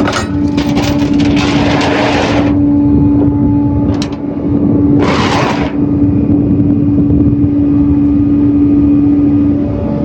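Flatbed tow truck's engine running with a steady drone that stops shortly before the end, with two bursts of hiss, one in the first couple of seconds and a shorter one about five seconds in.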